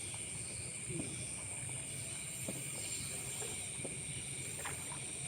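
Steady chorus of night insects, an unbroken shrill hum at two high pitches, with a few faint scattered ticks.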